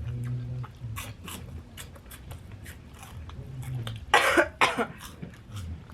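A person coughing twice, harshly, about four seconds in, amid faint crunchy chewing: a choking cough brought on by eating powdery, spicy snack balls fast.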